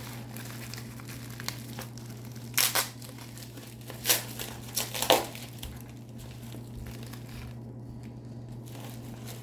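A bag crinkling and rustling as it is opened and rummaged through by hand, in a few short louder bursts during the first five seconds, then quieter. A steady low hum runs underneath.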